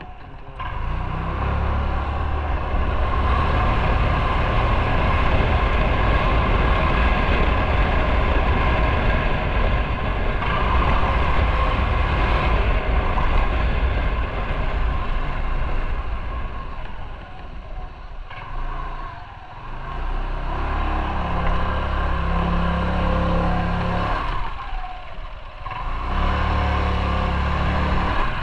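Motorcycle riding on the road, its engine running under a steady rush of wind and road noise. The engine eases off briefly twice in the second half, then picks up again.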